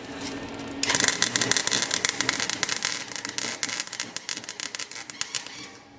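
Chicago Electric wire-feed welder crackling steadily as a weld is run on the exhaust. It starts about a second in and stops shortly before the end.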